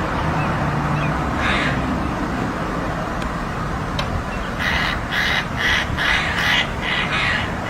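Crows cawing: one harsh caw about a second and a half in, then a rapid run of about eight caws, two or three a second, from about halfway.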